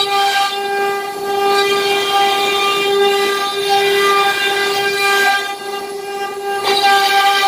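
CNC router spindle running at a steady high speed and cutting a partition panel: a constant whine with a noisy cutting hiss underneath, easing off briefly about three-quarters of the way through.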